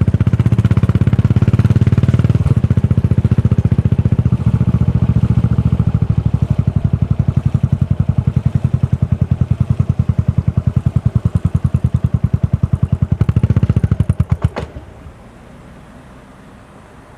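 Yamaha SR400's single-cylinder engine idling through a Goods tapered-cone slip-on muffler, a steady beat of exhaust pulses. Near the end it shuts off, stopping after a few last pulses.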